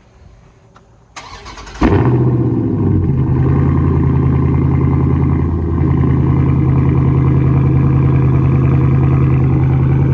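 Dodge Charger Scat Pack's 392 HEMI V8 cold start through an exhaust with the mid muffler removed: the starter cranks briefly about a second in, the engine catches with a sudden loud burst and then settles into a steady, loud idle.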